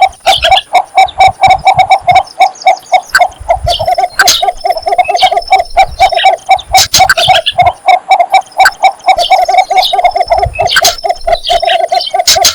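Cinnamon bittern giving its mating call: a long, unbroken run of short, low clucking notes at about four a second. Higher chirps from other birds are heard over it.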